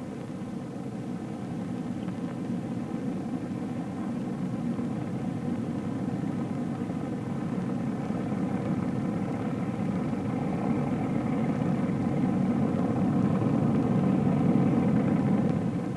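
Jet engines of a B-45 bomber running, a steady rumble and hiss that grows gradually louder, then eases off near the end.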